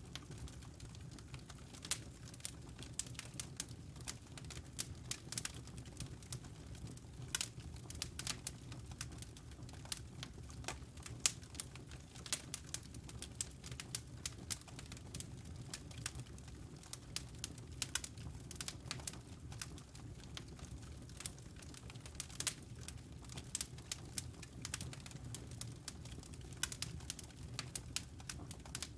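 Wood fire crackling, with irregular pops and snaps over a steady low rumble.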